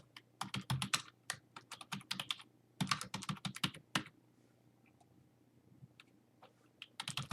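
Typing on a computer keyboard: quick runs of keystrokes for about four seconds, then a lull with only a few single key presses, then another quick run near the end.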